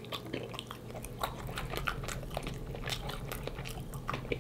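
A person chewing a mouthful of sauce-covered fried chicken, with many small crunchy crackles from the breading.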